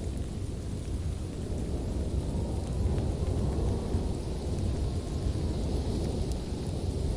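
Fireplace fire burning with a steady low rumble and a few faint crackles.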